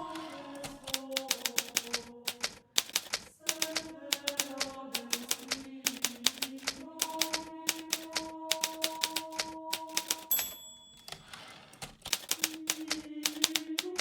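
Hermes Baby portable typewriter typed rapidly, key strikes clicking in quick runs with a brief pause about three seconds in. About ten seconds in, a short bell ding and the rasp of the carriage being returned break the typing, which then resumes. Soft music with slow held notes plays underneath.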